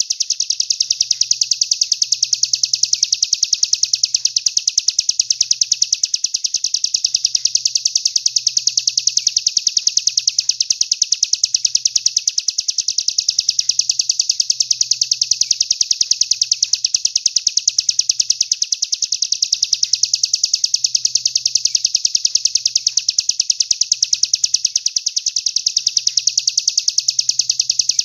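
A songbird's high-pitched chirping repeated very rapidly in an unbroken trill, played as a looped training recording for songbirds.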